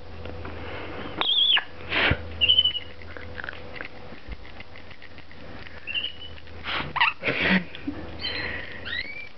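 Pet parrots (a lorikeet and a conure) making short chirps and squeaky whistles now and then, with a few brief harsh noisy squawks or scuffles, the loudest about two seconds in and around seven seconds in.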